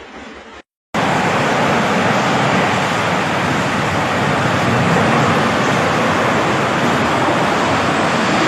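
Strong wind rushing over the phone microphone, a loud steady noise with no pitch, starting abruptly about a second in after a brief break in the sound.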